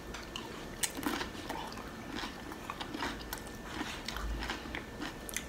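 Close-up mouth sounds of a person biting and chewing a loaded tortilla-chip nacho, with irregular crisp crunches from the chips.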